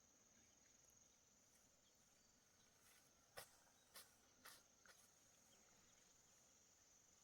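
Faint, steady, high-pitched insect chirring, with four short clicks about half a second apart in the middle.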